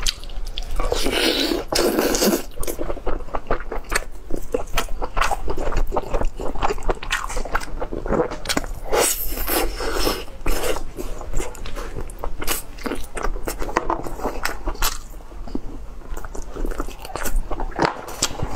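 Close-up mouth sounds of eating boiled lamb ribs: biting meat off the bone and chewing, with many quick wet clicks and smacks.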